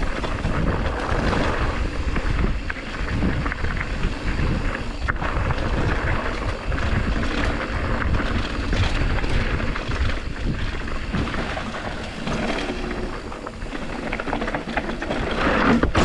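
Mountain bike riding down a dirt trail: wind rushing over the microphone and tyres rolling over the ground, with frequent small clatters and knocks from the bike.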